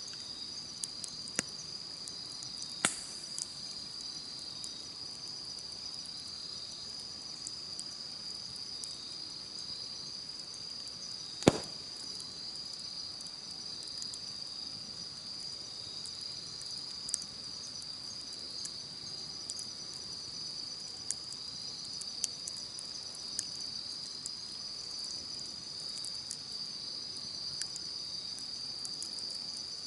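Insects trilling steadily in a high, continuous chorus, with a wood campfire crackling in scattered sharp pops; the loudest pop comes about eleven seconds in.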